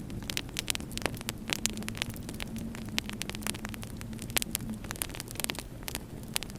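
Wood fire in a fireplace crackling, with many irregular sharp pops over a low steady rumble and a faint hum.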